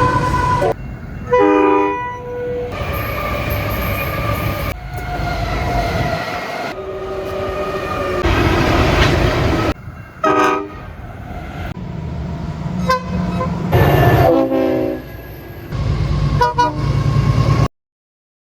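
Train rumbling with several short train horn blasts, the sound changing abruptly as if cut together from separate pieces, then stopping suddenly near the end.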